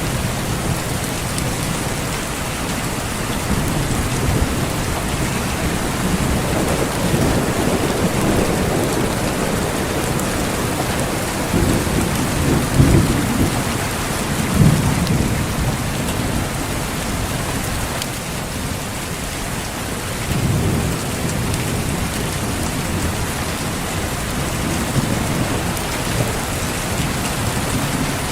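Steady rain falling, with several low rolls of distant thunder rumbling under it; the loudest roll comes about halfway through.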